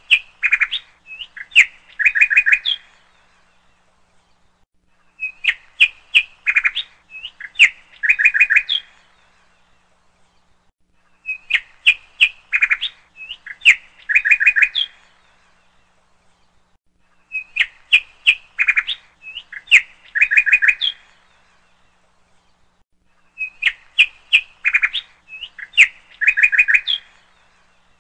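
Songbird chirps and trills. The same short phrase repeats about every six seconds, with quiet gaps between.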